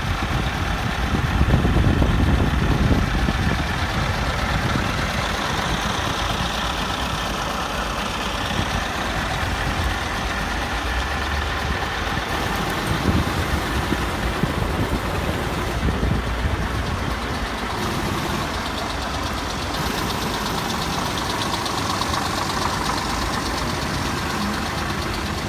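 Scania G360 truck's diesel engine idling steadily.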